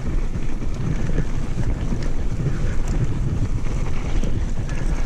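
Wind rushing over the microphone of a moving mountain biker: a steady low buffeting rumble, with a few faint ticks.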